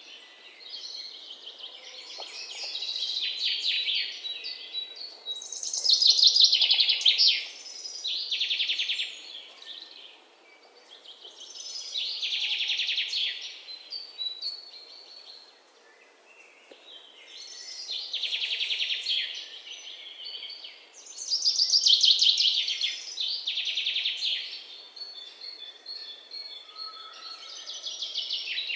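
Songbirds singing: loud, high, trilled song phrases of a second or two, repeated every few seconds over a faint steady hiss.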